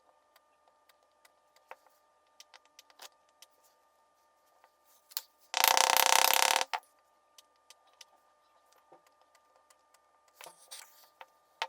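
A small electric motor runs for about a second, starting and stopping abruptly, between scattered light clicks and taps of handling.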